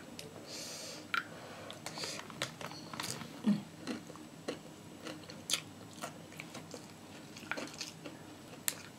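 A person chewing and biting crunchy food close to the microphone: irregular crisp crackles and clicks, with no steady rhythm.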